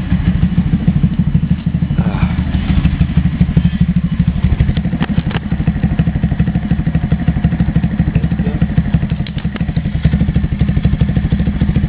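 Single-cylinder 125cc Lifan pit bike four-stroke engine idling steadily, with a few light clicks and clatters over it.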